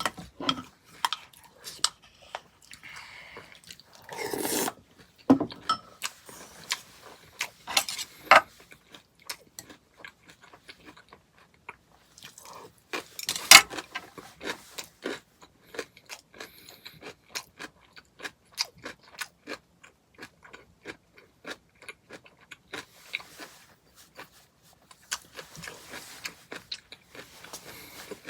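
A person chewing and crunching granola cereal in hot soup, with many small crunches and clicks and one sharper click about halfway through.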